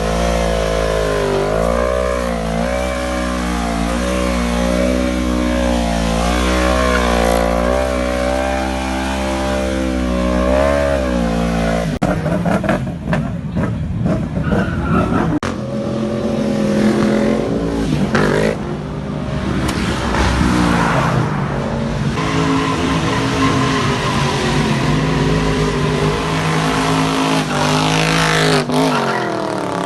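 Car engines running and being revved, their pitch rising and falling repeatedly, with an abrupt change about twelve seconds in and revs dropping away near the end.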